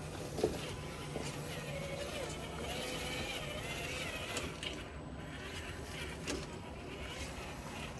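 Radio-controlled TRX-4 rock crawler working over rocks: its small electric motor and drivetrain whine faintly, rising and falling in pitch as it crawls. A sharp knock about half a second in and another around six seconds in, with a steady low hum underneath.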